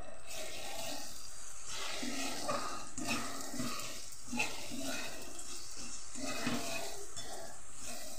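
Tomato-onion masala with ground spices frying in oil in an aluminium kadai, sizzling steadily while a spatula stirs and scrapes against the pan in repeated short strokes.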